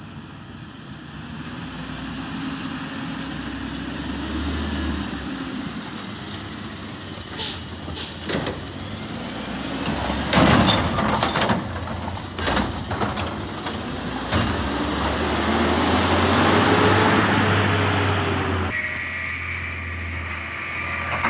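Peterbilt 520 Heil garbage truck's diesel engine revving hard as the Curotto-Can arm works, with a burst of knocks and bangs from the cart and its lid being slammed around the middle. The engine revs up again after the bangs and the sound changes abruptly near the end.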